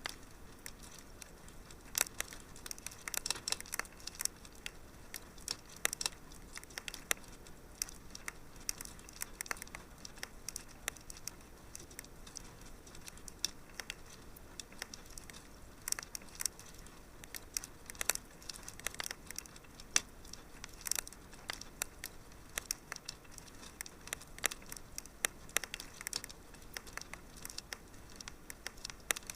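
Fire crackling in a fireplace: irregular sharp snaps and pops, several a second, over a soft steady hiss.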